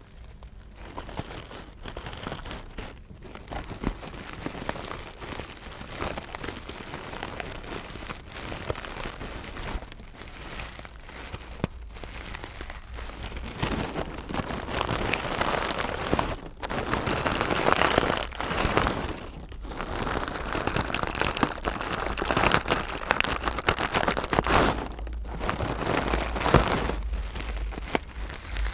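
Close-miked ASMR rustling and scratching: a dense, crackly texture that pauses briefly every few seconds and grows louder about halfway through.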